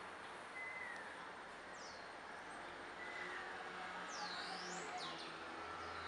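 Faint bird chirps: a few short falling whistles and several quick sweeping calls over a steady background hiss.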